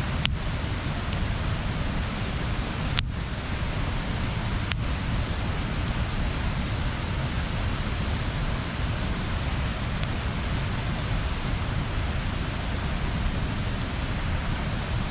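Wood bonfire burning with a steady hiss and rumble, and a few sharp crackles, the loudest about three seconds in.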